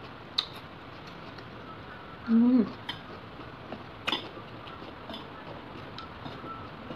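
Chopsticks clicking against plastic takeaway food containers a few times as food is picked up. A short vocal sound with falling pitch from the eater comes a little over two seconds in.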